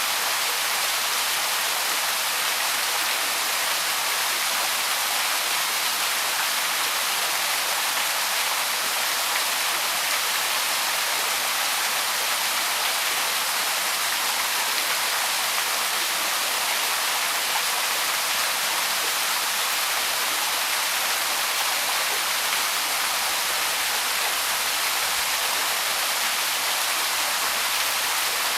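Small waterfall splashing and rushing steadily, a constant hiss of falling water.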